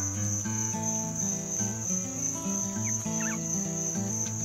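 Crickets chirring in a steady, unbroken high drone, with background music of held low notes stepping from pitch to pitch that starts abruptly right at the beginning.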